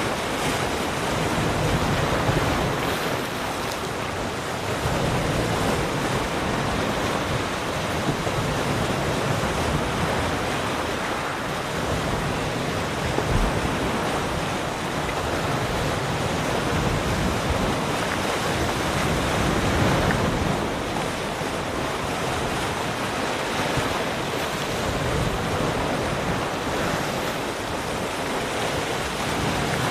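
Ocean surf: waves breaking and washing in a continuous rushing noise that swells and eases gently every few seconds.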